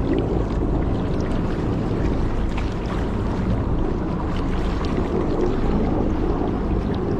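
Steady low engine rumble mixed with wind noise on the microphone.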